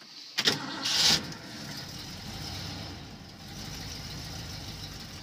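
1979 Ford F-350 gasoline engine cold-starting: it fires right off within about a second, with a brief rev as it catches, then settles into a steady idle. There is no choke, so the throttle is feathered by foot through its aftermarket Holley carburetor.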